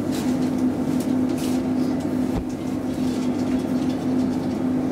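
Steady interior noise of a Roslagsbanan X10p electric commuter train: an even hum with one constant low tone and a faint low knock about halfway through.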